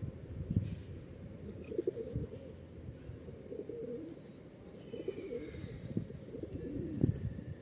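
Pigeons cooing continuously in a low murmur. About five seconds in, another bird gives one short, high call that falls in pitch.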